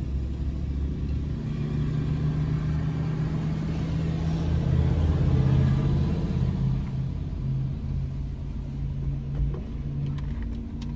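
Car engine idling, heard from inside the cabin as a steady low rumble that swells louder for a couple of seconds around the middle.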